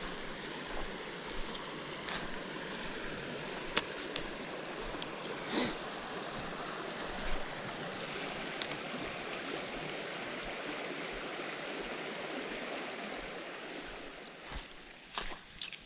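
Creek water running steadily, with a few sharp clicks and a brief louder burst about five and a half seconds in; the water sound dies down near the end.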